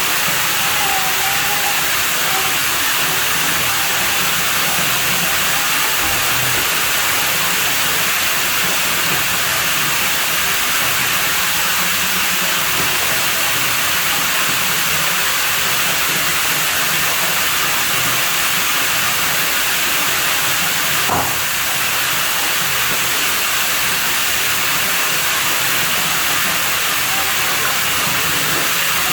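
Steady rush of running water at a pool, an even hiss with no let-up. A single faint click comes about two-thirds of the way through.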